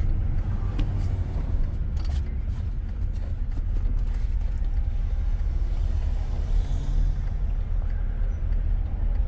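Steady low rumble of a car heard from inside the cabin while driving, engine and road noise, with a few faint clicks.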